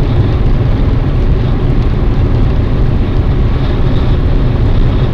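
Steady low rumble and hiss of a car driving, picked up by a dashcam, with no impact or braking.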